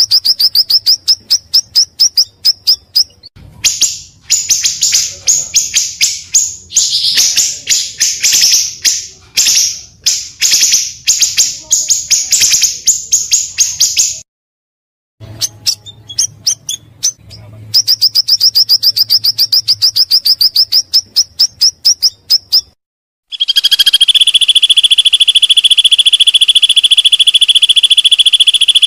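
Pancawarna bird calling: rapid runs of high, sharp chirps repeated many times a second, broken by two short pauses. Near the end it cuts abruptly to a loud, steady, high insect-like trill.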